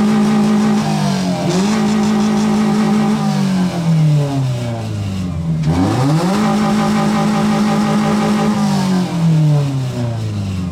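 A car engine and exhaust revved hard twice: each time the pitch climbs, holds steady at high rpm for about three seconds, then falls back. A full-throttle run for a decibel reading in an exhaust sound competition.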